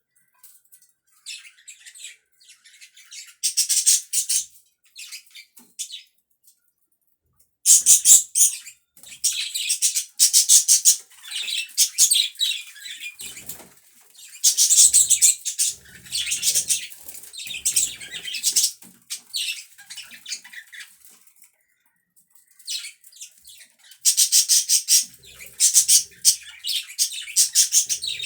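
Pet budgerigars chattering and warbling in fast, high-pitched runs. The chatter comes in bouts with short pauses between them, starting about a second in.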